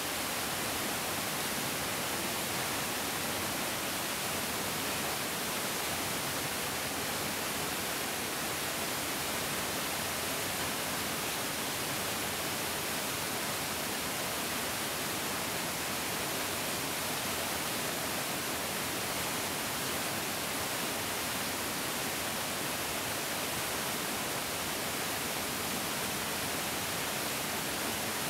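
Mountain stream rushing steadily, a dense, even hiss of flowing water with no separate splashes or changes.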